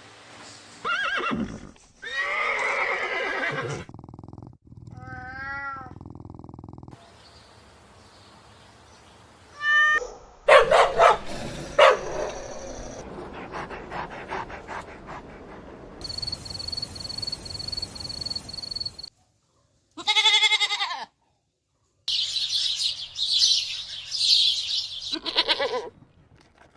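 A run of different animal calls cut one after another, each a short pitched call or series of calls with abrupt changes between them. A steady high tone lasts about three seconds in the middle, and high chirping comes near the end.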